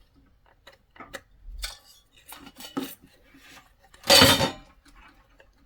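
Plastic wiring connectors being pulled off a diesel heater's control board: scattered small clicks and clinks, with one louder, brief clatter about four seconds in.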